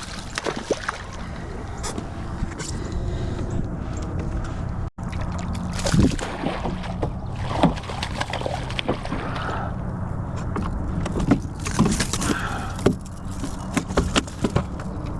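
Knocks, clicks and rattles of gear being handled aboard a kayak, over a steady low hum.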